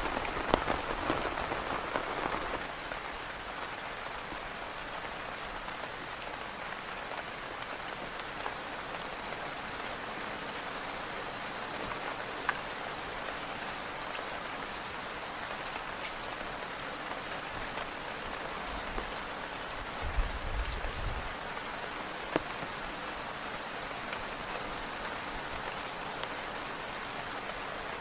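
Heavy rain falling steadily on a tent, with scattered sharper drop hits. It is heavier for the first two seconds or so, then evens out. About twenty seconds in there is a brief low rumble.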